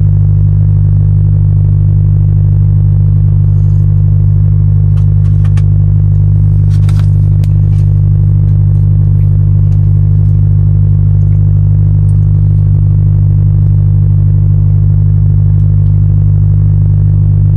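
A truck's diesel engine running steadily as a loud, even low drone, with a few faint clicks and rattles about five to seven seconds in.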